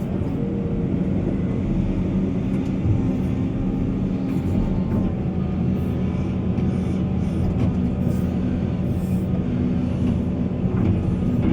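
Diesel engine of heavy earthmoving machinery running steadily with a low hum, with a few faint clicks now and then.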